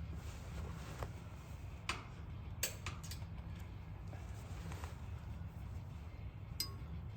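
A few sharp, separate clicks and taps of small parts being handled and fitted, over a steady low hum.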